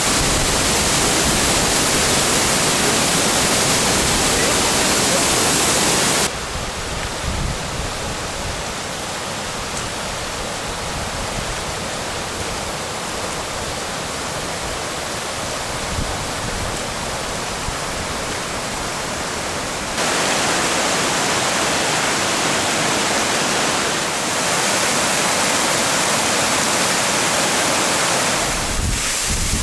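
Steady rushing roar of a waterfall, Aber Falls, with a quieter, duller stretch through the middle.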